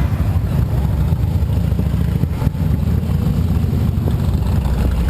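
Steady low rumble of motorcycle engines running.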